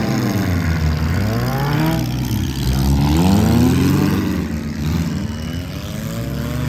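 Gut-and-go demolition derby cars' engines revving hard, their pitch rising and falling over and over as the cars accelerate and back off.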